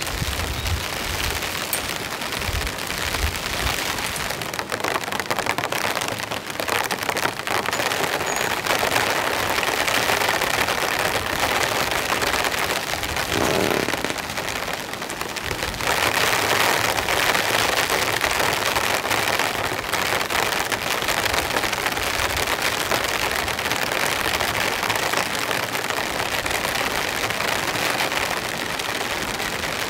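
Heavy rain pouring steadily, getting louder about halfway through, with a few low thuds in the first few seconds.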